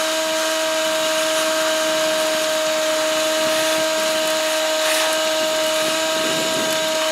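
Shop vac running steadily with a constant high whine over a rushing hiss, sucking up wet soil from around buried sprinkler lines.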